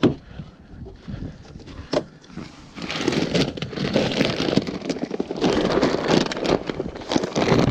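Two sharp knocks, then from about three seconds in a loud, dense crackling and rustling noise made of many small clicks.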